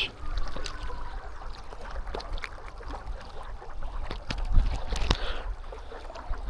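Creek water splashing and sloshing, with scattered clicks and knocks of handling and a low rumble of wind on the microphone. The loudest splash comes about four and a half seconds in.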